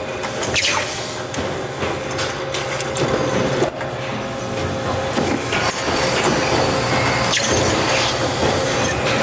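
Metal-forming machine running while it reduces a steel muffler end with a die, a steady hum with a constant tone under continuous metal-on-metal scraping and rumbling. There is a short sharp click about four seconds in.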